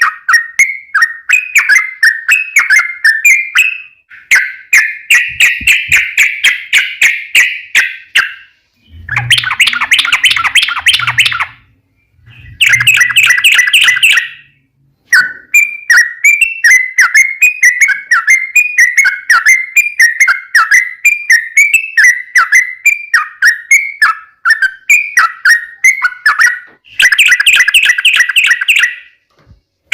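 Yellow-vented bulbul (trucuk) singing long, fast runs of chirping notes, the 'ropel panjang' style used to lure other bulbuls into answering. Three times the song turns into denser, harsher bursts, a short pause coming before the first two.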